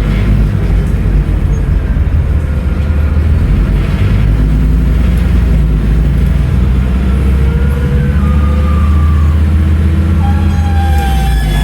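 Scania N310UA articulated city bus running under way: the 310 hp diesel engine gives a steady low rumble. In the second half a thin whine from the ZF Ecomat 6-speed automatic gearbox slides down in pitch, then steps up again near the end.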